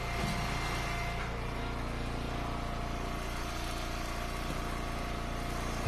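Engine of an Eastonmade wood splitter running steadily.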